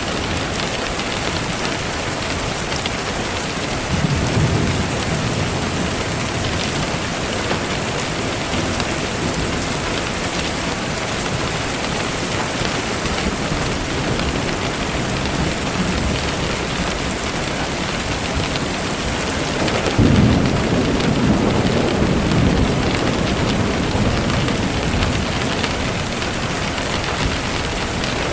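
Steady rain falling, with two low rolls of thunder: a short one about four seconds in and a longer, louder one starting about two-thirds of the way through and fading over several seconds.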